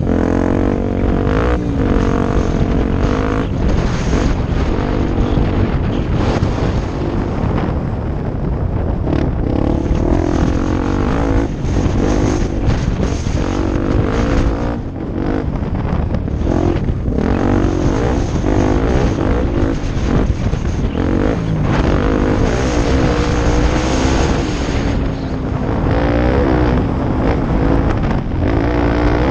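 Off-road motorcycle engine running hard while riding, its pitch rising and falling over and over as the throttle opens and closes and the gears change.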